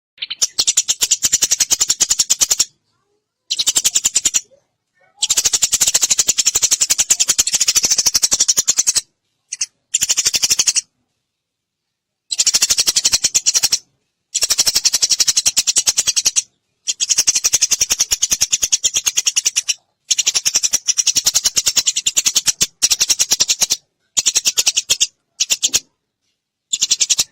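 Eurasian tree sparrow chirping in long, very rapid chattering runs of a few seconds each, broken by short sudden silences.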